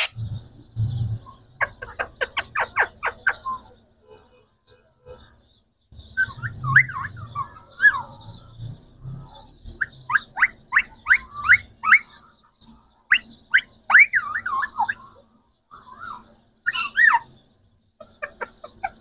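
Green parrots calling: a quick run of about eight sharp chirps, then bursts of warbling squawks and short rising calls with short pauses between them.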